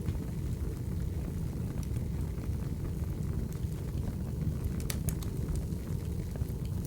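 Wood fire burning: a steady low rumble with scattered crackles, and a few sharper pops about five seconds in.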